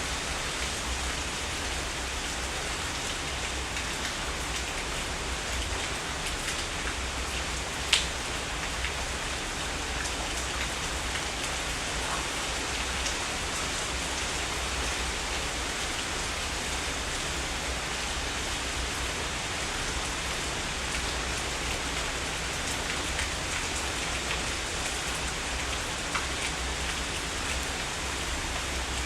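Heavy rain falling steadily, with scattered single drops ticking close by and one sharper drop hit about eight seconds in, over a steady low rumble.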